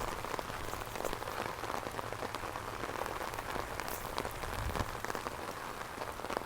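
Heavy rain falling: a steady hiss thick with many sharp drop impacts close by.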